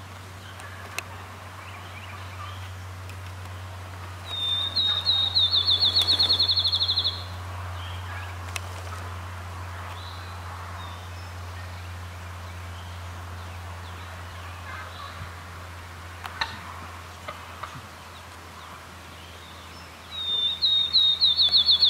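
A songbird's rapid high trill, about three seconds long, heard twice: about four seconds in and again near the end. Faint turkey calls sound between them.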